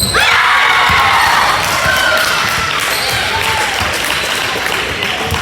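Indoor basketball game: many voices shout at once, rising suddenly at the start, over the noise of play on the court.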